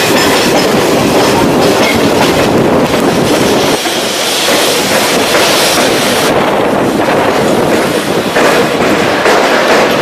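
A passenger train running along the track, its wheels and coaches making a loud, steady noise, heard from the open door of a moving coach.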